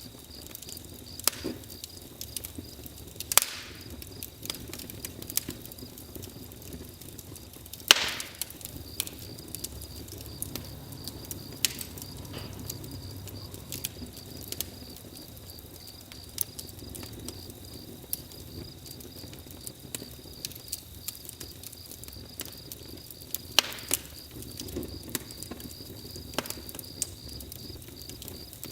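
Wood fire crackling, with sharp irregular pops, the loudest about eight seconds in, over a steady high chirring of crickets.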